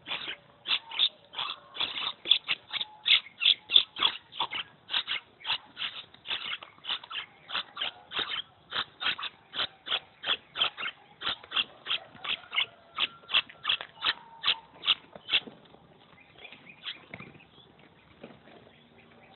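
Young maraba birds, chicks near fledging, calling over and over in short, sharp, high calls about three a second; the calling stops about three-quarters of the way through.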